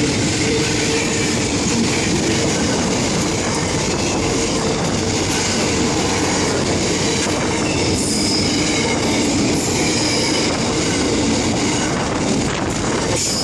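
Freight train wagons rolling past at speed: a steady, loud rumble of steel wheels on the rails, with high-pitched wheel squeal coming in over the second half.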